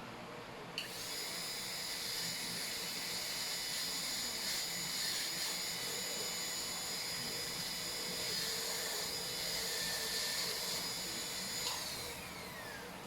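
High-speed dental drill handpiece starting with a sudden high-pitched whine about a second in, running steadily during cavity preparation of a molar. Near the end it winds down, its pitch falling as it stops.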